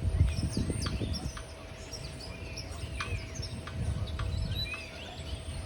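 Small songbirds chirping in park trees: many short, quick calls, several sweeping down in pitch, over a low rumble.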